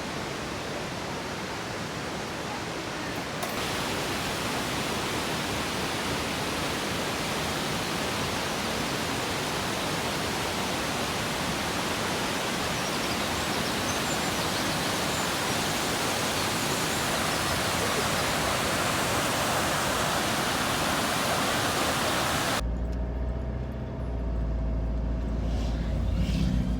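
Kegon Falls waterfall pouring: a steady, dense rush of falling water. About 22 seconds in it cuts off abruptly and gives way to a low rumble.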